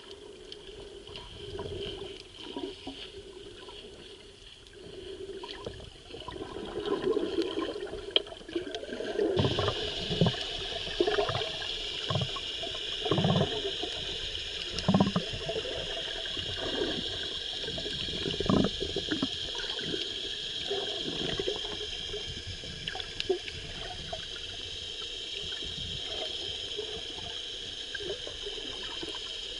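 Sea water heard through a camera filming fish underwater: muffled sloshing and gurgling with irregular dull knocks. About nine seconds in, a steady high-pitched hum joins in and holds.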